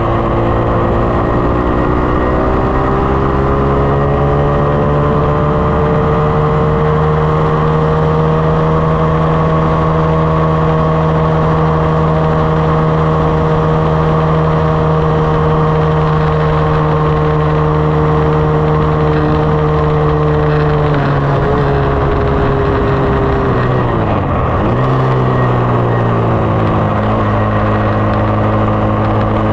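2020 SSR 189 dirt bike's single-cylinder four-stroke engine pulling under way. The engine note climbs over the first few seconds and holds steady, falls away about two-thirds of the way through, dips lowest a few seconds later, then climbs and settles at a steady pitch again.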